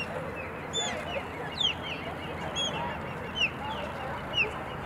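A bird calling over and over, short falling chirps about once a second, with faint voices underneath.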